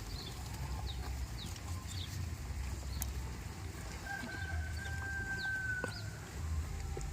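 A rooster crowing once in the distance, one long drawn-out call about four seconds in, with a few short high bird chirps around it over a steady low rumble.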